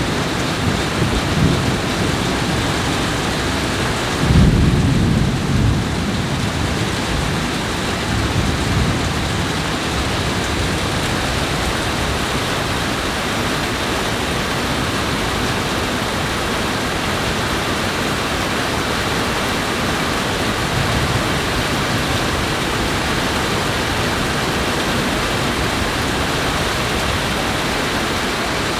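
Steady heavy rain from a thunderstorm, with rolls of thunder: a louder rumble about four seconds in that fades over a couple of seconds, and weaker rumbles near the start and around eight seconds.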